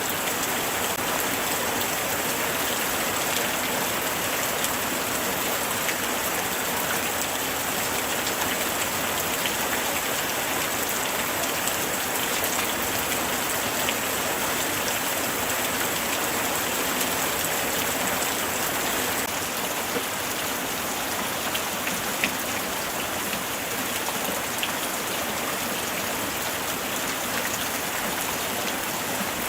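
Light rain falling steadily: an even hiss of rain on surfaces, dotted with scattered sharper ticks of single drops.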